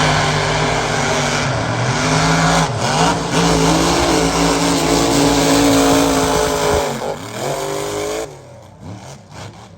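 Unlimited mega truck's engine at full throttle on a mud-drag run, a heavy engine note over a wash of noise, its pitch stepping and wavering. It rises once more near the end and then drops away sharply about eight seconds in.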